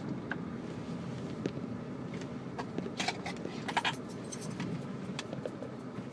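Steady hum inside a moving Toyota Camry's cabin, with keys jingling in short bursts about three to four seconds in.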